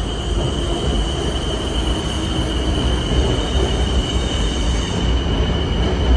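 BTS Skytrain EMU-B1 electric train running, heard from inside the car: a steady rumble with a constant high whine over it.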